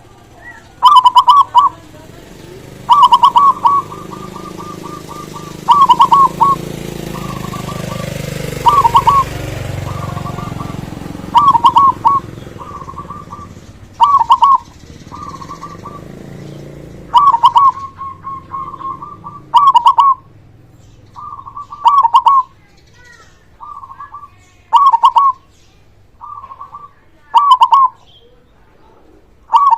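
Male zebra dove (perkutut) singing its loud stuttering coo, repeated about every two and a half to three seconds, with softer trailing notes between some phrases. A low background rumble swells and fades in the middle.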